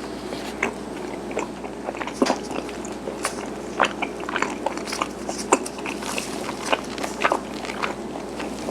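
Close-miked chewing of garaetteok, chewy Korean cylinder rice cake: irregular sharp mouth clicks, a few louder bites among them, over a steady low hum.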